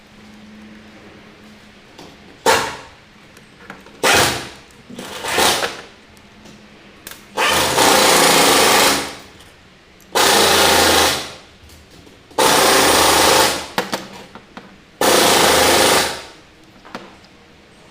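Compressed air blowing through carburetor parts in short hissing blasts: three brief ones, then four longer ones of a second or more each.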